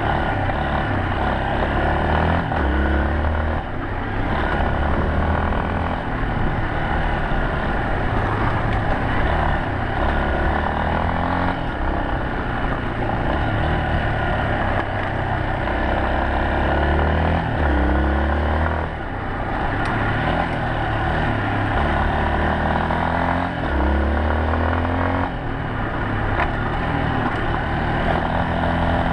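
Yamaha Serow 250's air-cooled single-cylinder engine running under way, its pitch climbing again and again as it accelerates, with a constant rushing noise underneath.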